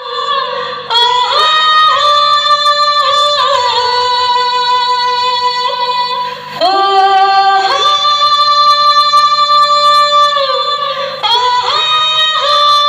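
Music played loud through a DJ sound system for a soundcheck: a high, voice-like melody of long held notes that slide up and down between pitches, some with vibrato.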